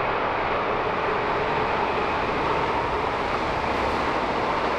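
Train passing at speed on the tracks, a steady rushing rumble of wheels on rails.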